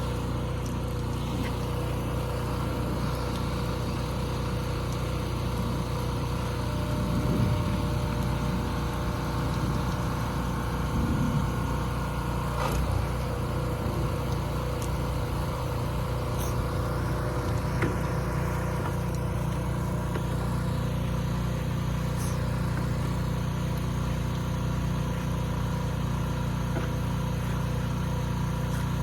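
Gasoline pressure washer's small engine running steadily, a constant drone with a steady whine and a few brief louder moments in the first half.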